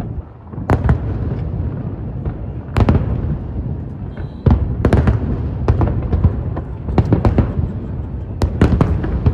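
Fireworks display: aerial shells bursting in irregular bangs, some single and some in quick clusters, over a continuous low rumble of echoing detonations. The bursts come closer together from about halfway through.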